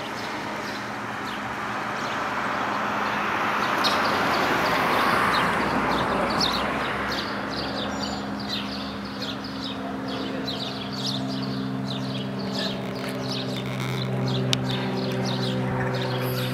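Small birds chirping in rapid, repeated short calls throughout, over a rushing noise that swells and fades in the first half and a steady low engine-like hum that sets in about halfway through.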